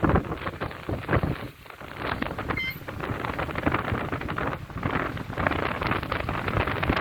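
Strong sea wind buffeting the microphone, in uneven gusts with rumbling thumps.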